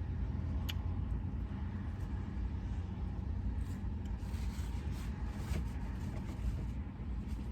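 Steady low rumble of a car heard from inside the cabin, with a sharp click about a second in and a few faint ticks later.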